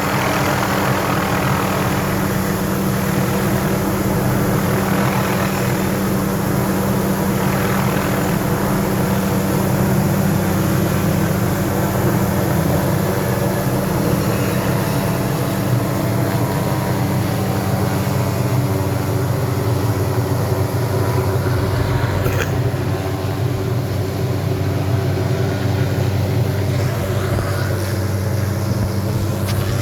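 Steady engine drone with an unchanging low hum.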